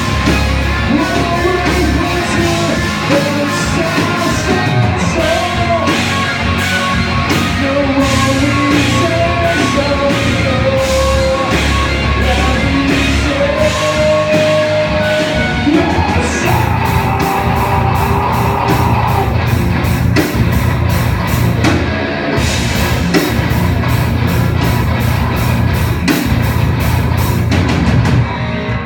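Live rock band playing loud with a steady drum beat, electric guitars and singing.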